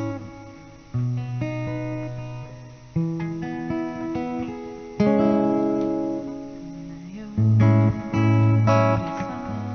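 Acoustic guitar playing a slow song intro: chords struck every second or two and left to ring out over low bass notes, quickening near the end.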